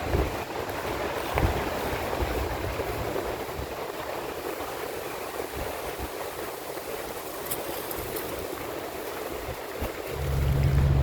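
Sea surf washing steadily on the shore, with strong wind buffeting the microphone; a heavy gust hits about ten seconds in.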